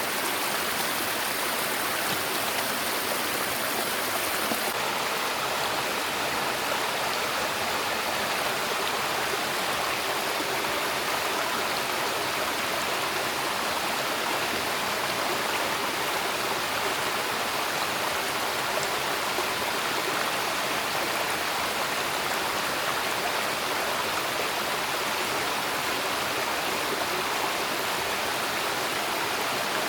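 Steady rush of flowing water, an even, unbroken noise with no change in level.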